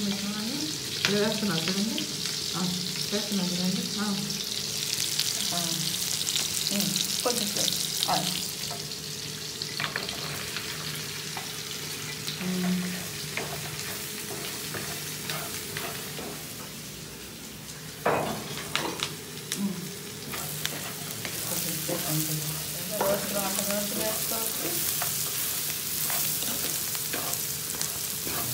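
Marinated mutton and onions frying in hot oil in a pan: a steady sizzle, with a wooden spatula stirring and scraping the pan and knocking against it now and then. The loudest knock comes about two-thirds of the way through.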